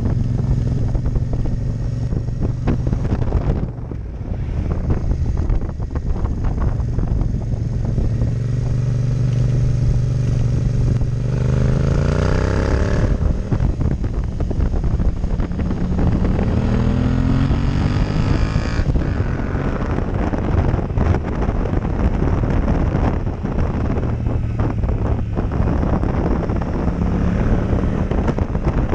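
Yamaha MT-07 Tracer's parallel-twin engine running under heavy wind noise on a helmet-mounted action camera. The engine holds steady, then its revs climb twice in quick succession as the bike accelerates, before settling back to a steady cruise.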